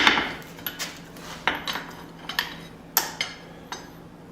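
A smith's hammer on steel at the anvil: one heavy ringing blow at the start, ending a run of strikes, then lighter, irregular ringing taps and clinks of metal on metal as the small hatchet head is worked back into shape. A faint steady low hum runs underneath.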